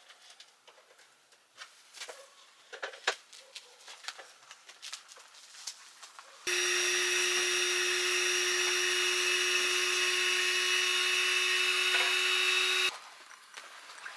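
Faint light ticks and taps, then about six seconds in a small electric motor switches on. It runs at a steady pitch with a constant whine for about six seconds and cuts off abruptly.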